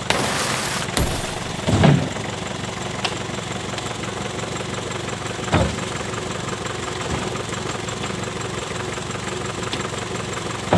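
Daihatsu Taft Hiline's diesel engine running steadily at idle, with several heavy thumps over it, the loudest about two seconds in.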